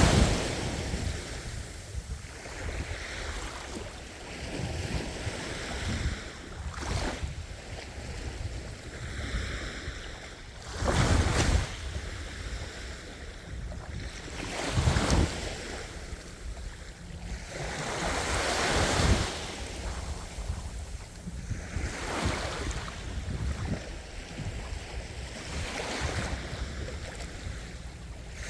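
Ocean waves breaking and washing on a shore, in a steady rush of surf with several louder surges a few seconds apart. Wind rumbles on the microphone underneath.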